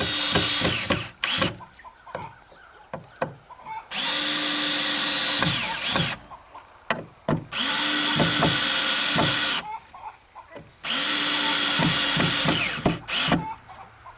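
Power drill run in four bursts of about two seconds each, its motor spinning up and winding down every time, with clicks and knocks of handling in between.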